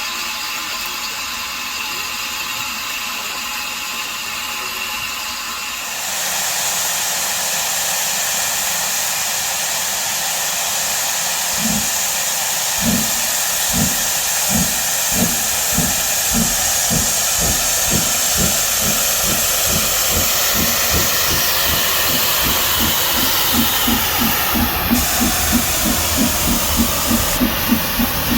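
Steam locomotive hissing steam, the hiss growing louder about six seconds in, then starting away: exhaust beats from the chimney begin about halfway through, slow at first and steadily quickening.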